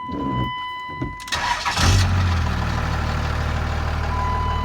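24-valve Cummins 5.9 diesel pickup engine with a VP44 injection pump and a straight-pipe exhaust, cranking briefly and catching at once a little over a second in, then settling into a steady idle.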